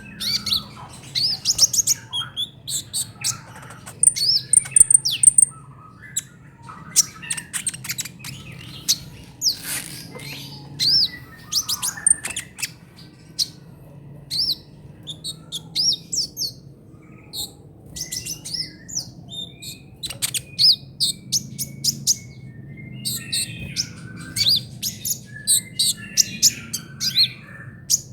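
Kolibri ninja sunbird singing a rapid chattering trotol song: runs of short, high, sweeping chirps and trills with brief gaps between bursts, over a faint low steady hum.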